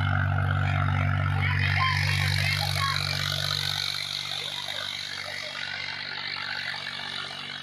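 Tractor engine running steadily, its hum growing weaker about halfway through.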